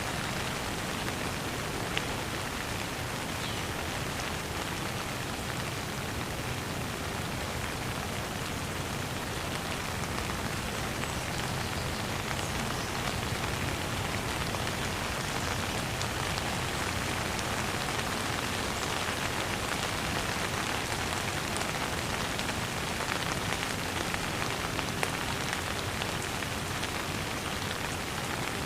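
Steady rain falling on a hard surface, a dense even patter with the odd louder drop standing out.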